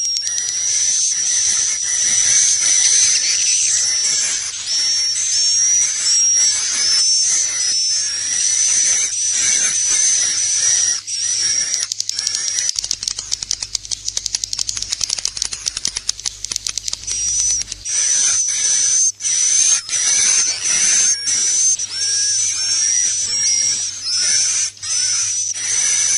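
Recorded edible-nest swiftlet calls: a dense, continuous chorus of high twittering chirps. In the middle there is a stretch of rapid clicking, and the chirping returns afterwards. It is a roosting call track of the kind played to draw swiftlets into a nesting house.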